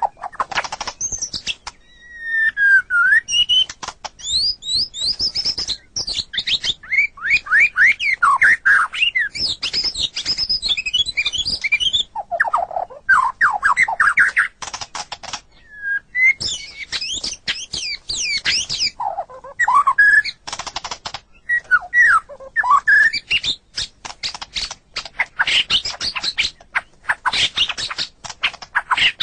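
White-rumped shama singing a long, varied song of rich whistled notes, quick trills and sweeping rising and falling glides. It is broken by harsh, rapid clicking chatter that becomes almost continuous in the last third.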